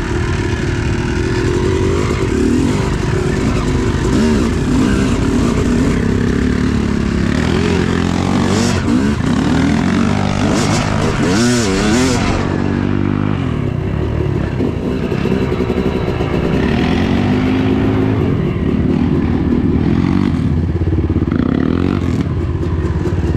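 Yamaha YZ250 two-stroke dirt bike engine running under riding load, its pitch rising and falling again and again as the throttle is worked. A few short sharp clatters come about halfway through.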